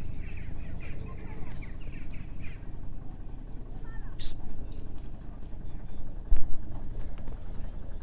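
Small birds chirping: a thin high chirp repeated about twice a second, with quicker falling chirps in the first couple of seconds, over a low rumble. A short hissy burst comes about four seconds in, and a dull thump a little after six seconds.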